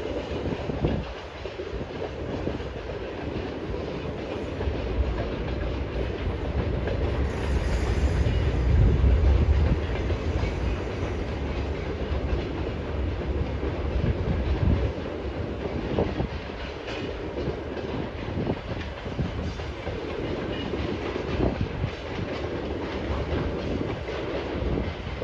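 Wagons of a freight train rolling past, with steady rumbling noise and the wheels clacking over the rail joints.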